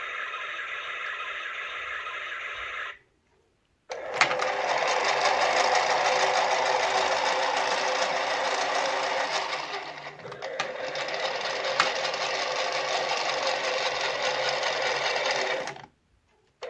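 Small electric motor of a toy washing machine running with a steady hum. It stops abruptly about three seconds in, starts again a second later, sags briefly around the middle and cuts off near the end.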